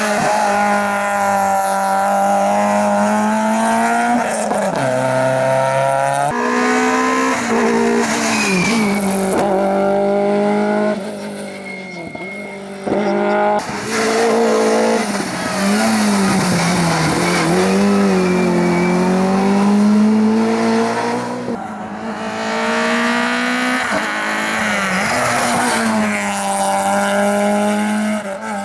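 Rally cars driven flat out on a stage, one after another: engines revving hard and climbing in pitch, dropping sharply on gear changes and lifts for corners, with tyre squeal in places. The sound changes abruptly several times as it switches from one car to the next.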